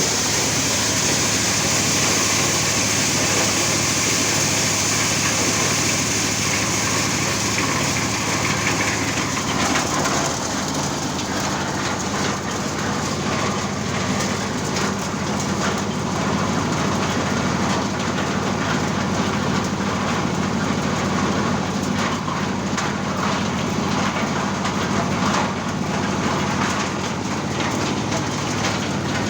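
Engine-driven corn sheller running steadily, with an engine hum under a dense, continuous rattle. About ten seconds in, a high hiss fades and the rattling clicks stand out more.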